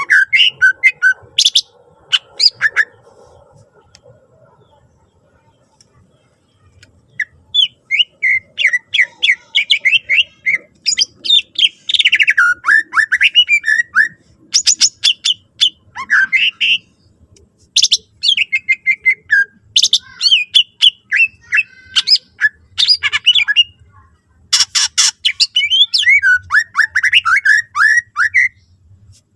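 Cucak ijo (green leafbird) singing a fast, varied song of chirps, trills and sharp rapid notes, full of phrases mimicked from other birds. It falls mostly quiet for a few seconds near the start, then sings almost without pause.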